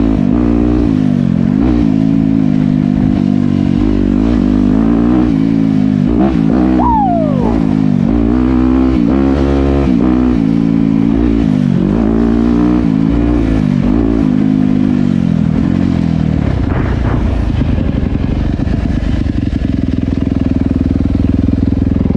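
Dirt bike engine riding a trail, revving up and falling back over and over, about once a second or two, as the throttle is worked. After about 16 seconds it settles into steadier, lower running.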